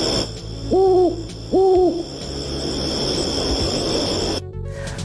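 Two short hooting calls about a second apart, each rising then falling in pitch. They sound over a steady high-pitched ringing and a low rumbling background, which cut off abruptly about four and a half seconds in.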